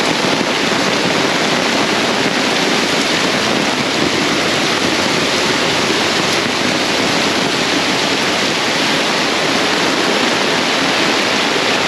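Torrential rain pouring down in a steady, even, heavy hiss.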